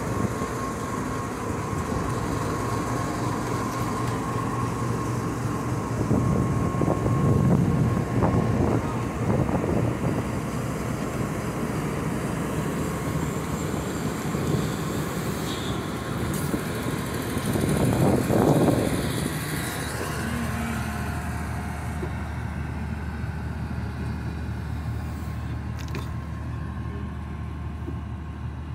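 Passenger train running on the rails: a steady rumble that swells louder twice, about seven and eighteen seconds in, then settles to a quieter low hum.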